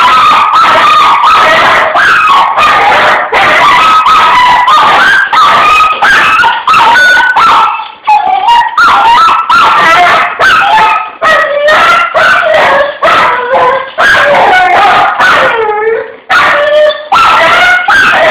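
An over-excited dog whining and howling almost without pause, its high cries sliding up and down in pitch, with a couple of brief breaks for breath.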